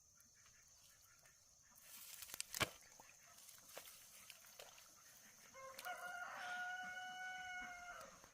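A rooster crowing once near the end, a long held call. A little over two seconds in there is rustling and one sharp click, all over a faint, steady high-pitched tone.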